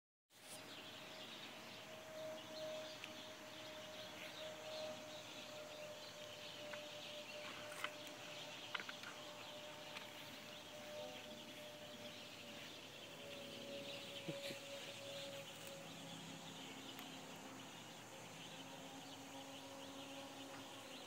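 Faint outdoor ambience of birds chirping, with a steady hum underneath and a few sharp clicks about eight and fourteen seconds in.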